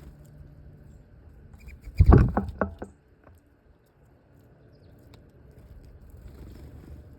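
A quick clatter of several sharp knocks about two seconds in, lasting under a second, over a faint low background hum.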